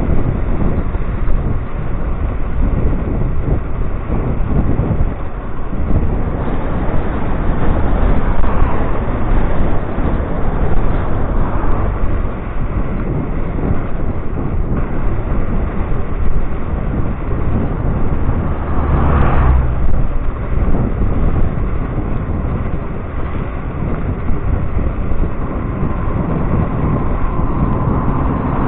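Steady wind rush on the microphone with road rumble, heard while riding an electric scooter, with a brief louder swell about two-thirds of the way through.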